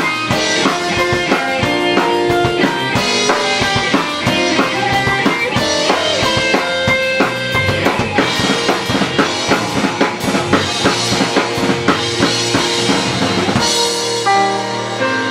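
Live rock band playing, with a full drum kit driving a steady beat under guitar and bass. Near the end the drums stop and only held instrument notes ring on.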